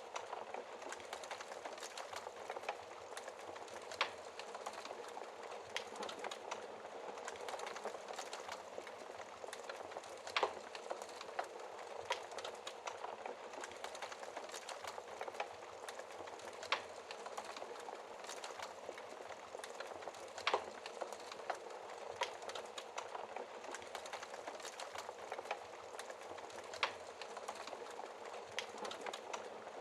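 Fire burning behind a glass shield: a steady crackling hiss with a handful of sharper pops spread every few seconds.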